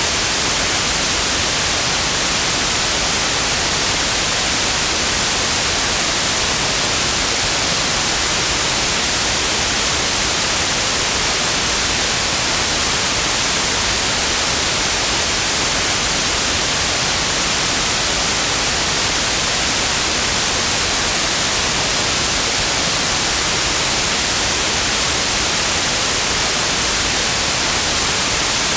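Electronically generated white noise: a steady, even hiss, brightest in the high frequencies, with no change from start to end.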